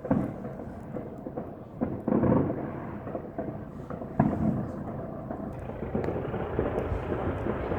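Distant fireworks booming: three muffled bangs, each with a long rumbling tail, near the start, about two seconds in and about four seconds in, followed by a steady low rumble.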